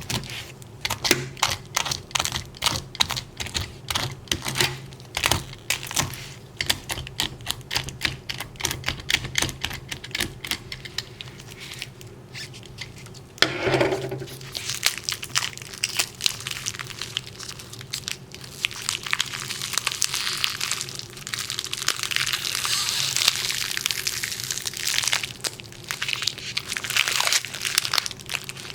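A quick run of sharp clicks and taps for about the first half. About halfway through there is a brief louder knock, and then a steady crinkling, crackling rustle like material being handled or crumpled.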